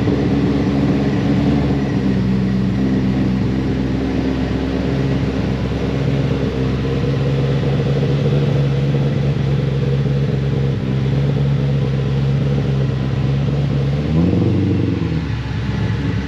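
Supercharged V8 of a Shelby GT500 Super Snake idling with a deep, steady note. About fourteen seconds in it rises and falls with a short blip of the throttle.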